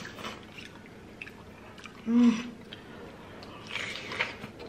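Close-miked eating sounds: chewing, small wet smacks and clicks of seafood being bitten and eaten, with a short closed-mouth "mm" about two seconds in.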